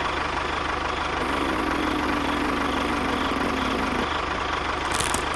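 A vehicle engine idling steadily with a low hum, a held tone rising out of it for a couple of seconds midway, and a short hiss near the end.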